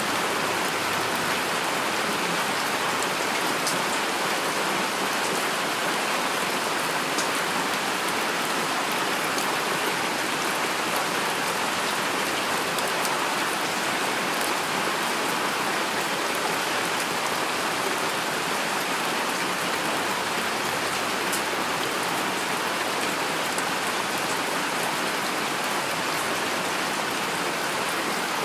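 Heavy rain falling steadily, an even hiss of rainfall on a surface with a few sharper drop ticks standing out now and then. No thunder is heard.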